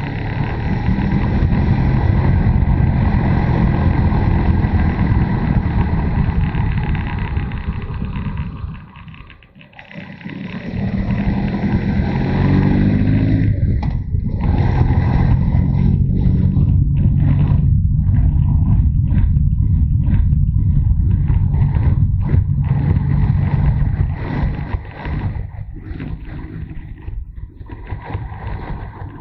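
Motorcycle engine pulling under load while riding. About nine seconds in it drops away briefly, then its pitch climbs as it picks up again, and it eases off near the end.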